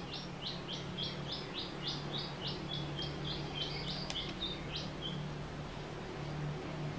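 A songbird singing a fast series of short, high, repeated notes, about four a second, that stops about five seconds in.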